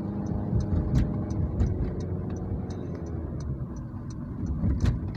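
Car engine running steadily, heard from inside the cabin while driving, with a regular light ticking about three times a second.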